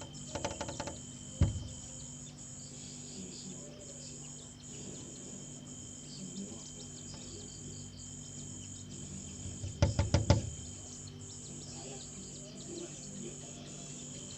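A bird pecking at its reflection in glass: two quick bursts of rapid taps, one just after the start and one about ten seconds in, with a single knock shortly after the first burst. A steady high insect trilling runs underneath.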